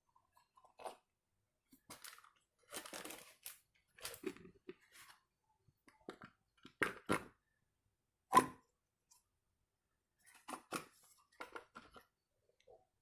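Irregular clicks, scrapes and crunchy rustles of small parts being handled while a motorcycle speedometer is worked on, with one sharp knock a little past the middle.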